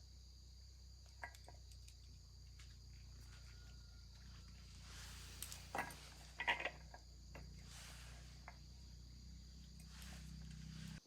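Steady high-pitched chirring of insects such as crickets over a low hum, with scattered small clicks and a few louder knocks and clicks about six seconds in.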